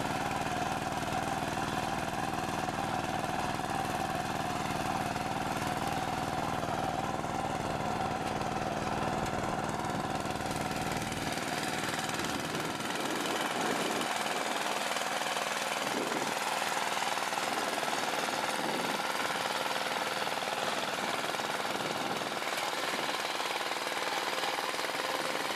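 A farm machine's engine running steadily with a rapid mechanical knocking. About halfway through, the deep low rumble drops away and the sound becomes thinner.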